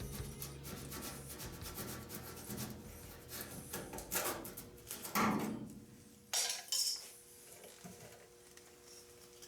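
Light tapping on a truck's lower body trim moulding with a mallet and plastic block, knocking the trim along its mounting tabs to free it: a quick run of small clicks and clinks, then three louder separate knocks between about five and seven seconds in.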